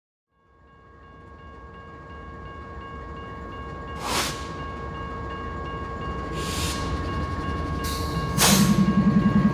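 Train approaching, its rumble fading in and building steadily, with a few short hissing bursts along the way. Near the end a much louder pulsing low sound sets in.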